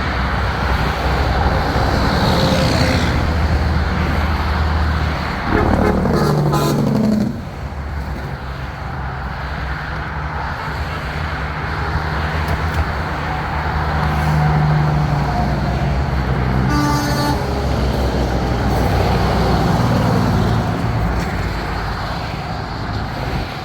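Diesel semi trucks rolling past in a convoy, engines running. About five and a half seconds in, a loud truck air horn blast drops in pitch as the truck goes by, and a shorter horn sound comes later.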